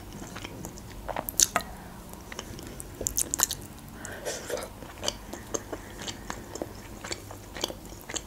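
A person chewing soft food close to the microphone: mouthfuls of beshbarmak's boiled noodles and meat, with many short wet mouth clicks, the loudest a little after one second and around three seconds in.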